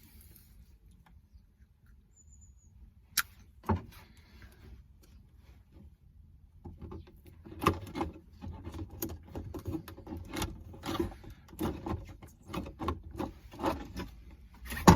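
Hands handling small plastic parts: two sharp clicks about three seconds in, then from about seven seconds a busy run of irregular clicks, taps and rustling.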